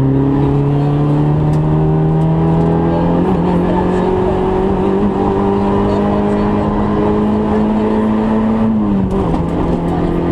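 Citroën Saxo N2 rally car's engine, heard from inside the cabin, pulling hard under load. The revs climb steadily for about three seconds, step once at a gear change, then hold high and dip briefly near the end before picking up again.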